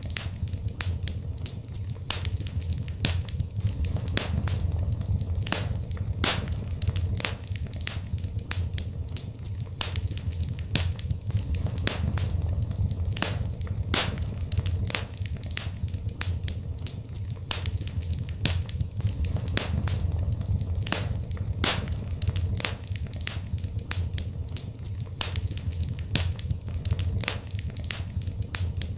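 Wood fire burning in a fireplace, with constant irregular crackles and pops over a steady low rumble of the flames.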